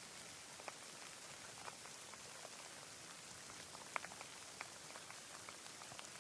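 Rain falling: a steady, faint hiss with scattered single drops landing close by, the clearest about four seconds in.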